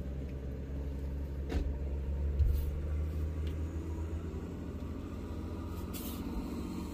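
Nissan Patrol GQ 4WD's engine idling steadily, heard from inside the cab, with a knock about a second and a half in and a heavier thud about a second later.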